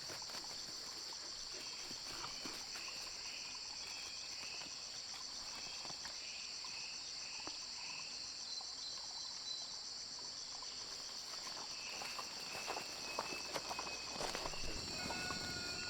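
A steady chorus of crickets and other insects trilling high and continuously, with faint scattered chirps beneath. Light rustling and footsteps come in during the last few seconds.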